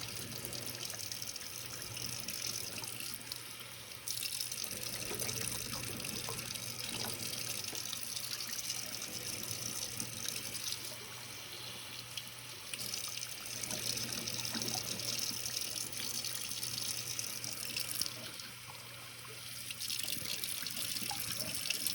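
Bathroom sink tap running as a furnace condensate trap and its tube are flushed through with water. The rush of the water shifts in level as the part is moved under the stream, dropping away briefly a couple of times.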